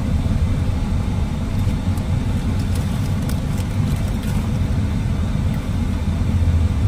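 Steady low rumble of a car's engine heard inside the cabin, with a few faint crinkles of a paper food bag being handled.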